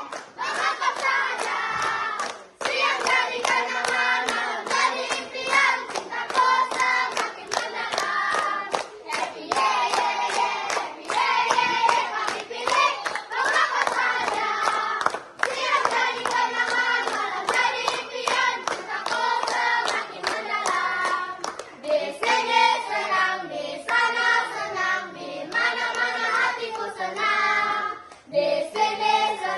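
Group of children singing together while clapping a steady beat; the clapping becomes less regular in the last part.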